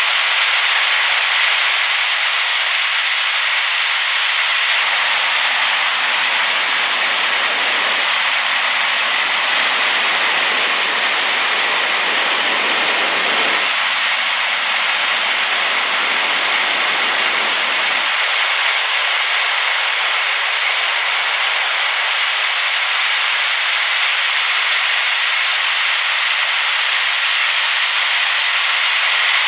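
Waterfall rushing steadily, the river running high and muddy after rain. For a stretch in the middle, from about five to eighteen seconds in, the sound fills out with a deeper rumble before thinning again.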